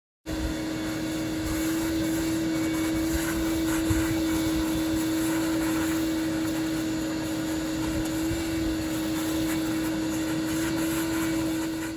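A loud, steady motor drone with a constant hum, starting abruptly and cutting off near the end.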